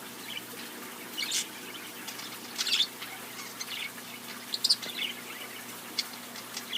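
Small cage birds chirping: several short, high chirps scattered a second or so apart.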